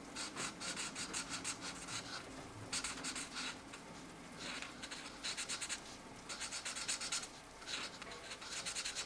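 Felt-tip markers (Mancola) scratching across colouring-book paper in quick back-and-forth strokes. The strokes come in short runs, the longest about two seconds, with brief pauses between them.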